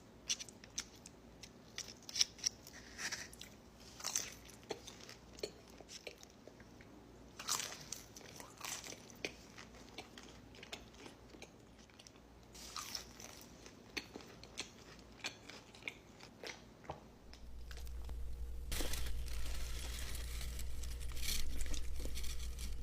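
Close-miked chewing and biting into pizza, with short crisp crunches. A steady low hum comes in near the end.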